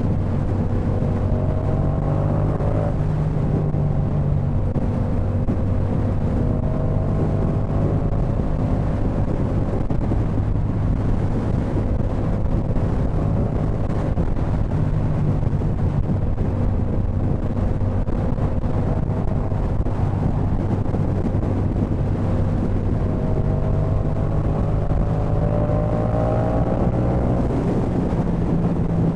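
Yamaha MT-07's 689 cc parallel-twin engine running through a Jeskap K4 full aftermarket exhaust while riding. It holds a steady cruise, with the engine note rising under acceleration about two seconds in and again near the end.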